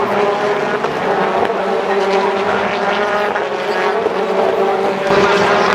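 BTCC touring cars' turbocharged four-cylinder engines running hard at high revs, a steady engine note with strong overtones and small shifts in pitch.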